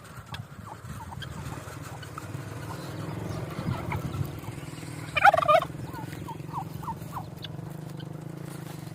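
Farmyard bird calls: scattered short chirps and, about five seconds in, one loud, rapid warbling call lasting half a second, over a steady low hum.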